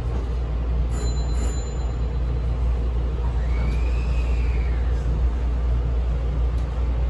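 Hankyu 1000 series electric train running with a steady low rumble and a rattling (kata-kata) that keeps sounding as it runs, which the uploader suspects is a fault. A faint whine rises and falls a little past halfway.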